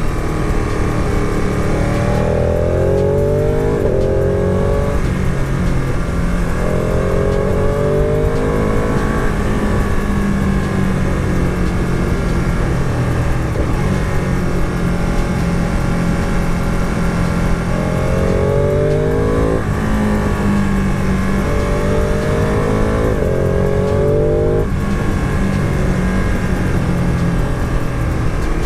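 Motorcycle engine under way, accelerating hard several times: its pitch climbs, drops back sharply at gear changes, then settles between the pulls.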